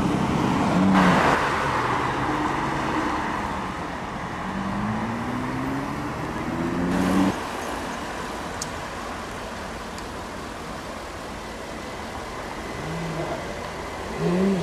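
A Porsche Cayman GT4's flat-six accelerating away, with a gear change about a second in and the pitch rising through the next gear. Then, after a sudden cut, quieter road noise until a Porsche Carrera GT's V10 starts to rev up near the end.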